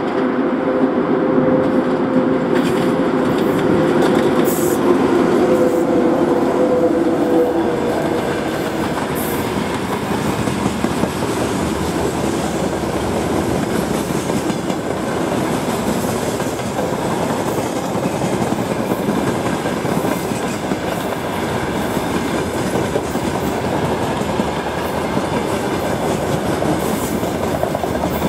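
Train passing close by, its wheels rolling and clacking over the rail joints in a steady, loud run. A steady hum sits under the rolling for the first several seconds, then fades into the noise of the passing cars.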